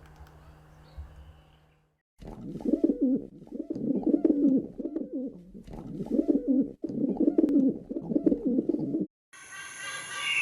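A bird cooing: low, rolling calls repeated over and over, starting about two seconds in and cutting off abruptly near the end.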